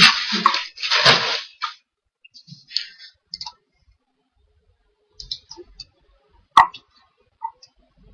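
Computer mouse clicking at a desk: scattered short clicks, one sharper than the rest near the end. Two louder rushing noises come in the first couple of seconds.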